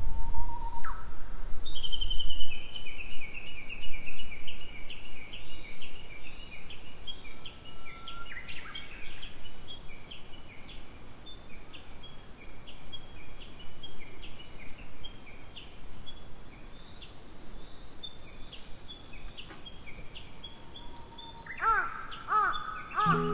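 Wild birds singing: a long, steady run of quick, high chirps and short falling trills. Music comes in near the end.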